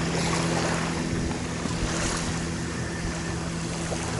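A boat engine runs with a steady hum, over the wash of waves and wind.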